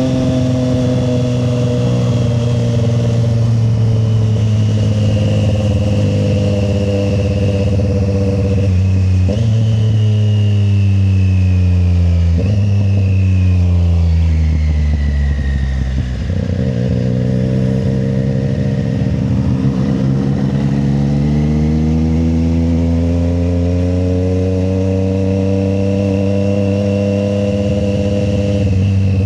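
Triumph Street Triple 765 RS motorcycle's inline three-cylinder engine under way. Its note falls as the bike slows, jumping up twice partway through as it is shifted down a gear, then rises steadily for the rest as the rider accelerates.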